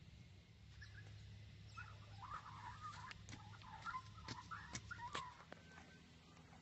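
Faint bird calls: a run of short, wavy chirps for a few seconds in the middle, with a few sharp taps among them.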